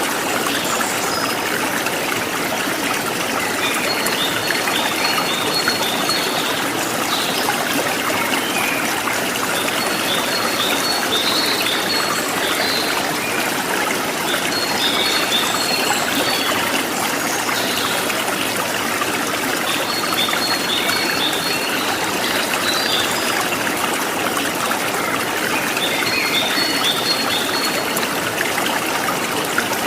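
A stream of running water trickling and splashing steadily. Over it a bird repeats a short, high chirping phrase about every five to six seconds.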